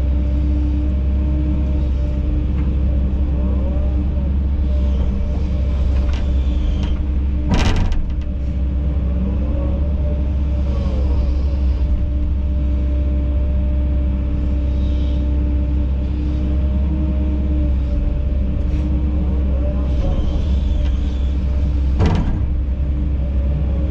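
Kobelco SK210 excavator's diesel engine running steadily under hydraulic load, with two sharp knocks, one about seven seconds in and one near the end.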